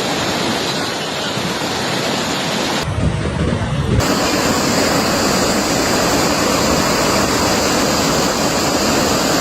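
Rushing floodwater: a steady, loud noise that changes abruptly about three seconds in and again a second later.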